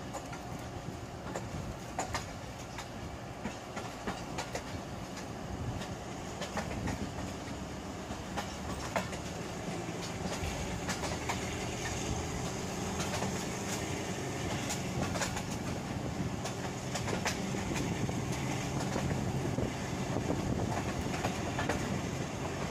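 Passenger train coach running on the rails, heard from its open doorway: a steady rumble with the wheels clacking over rail joints at irregular intervals, growing gradually louder.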